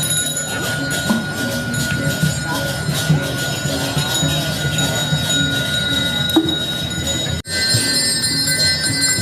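Metal bells ringing with steady, sustained high tones over a background murmur of voices. The sound cuts off abruptly about seven seconds in and resumes with a different set of ringing tones.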